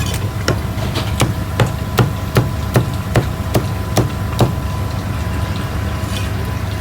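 Meat cleaver chopping roast chicken or pork on a wooden block: about a dozen sharp, evenly paced strikes, roughly two and a half a second, stopping about four and a half seconds in, over a steady low hum.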